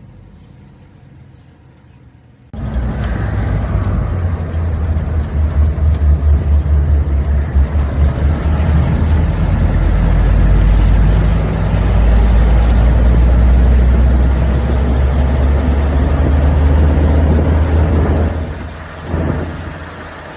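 A 1987 Suzuki Samurai being driven, heard as a heavy low rumble of engine and road noise that starts suddenly a couple of seconds in. It pulses unevenly for a few seconds, then runs steadily and drops away near the end.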